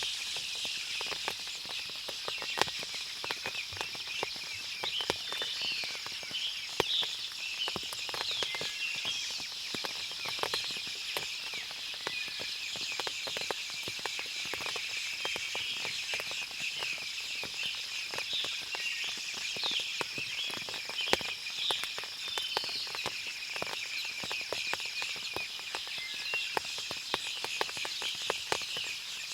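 Forest ambience after rain. Many small birds chirp over a steady high insect hum, with a constant scatter of irregular ticks like water dripping from leaves.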